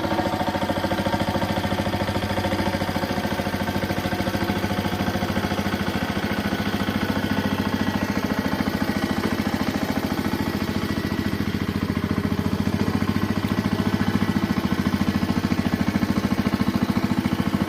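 Power tiller's single-cylinder diesel engine running steadily with a rapid, even firing beat. It grows a little louder after about twelve seconds, and its note shifts slightly soon after.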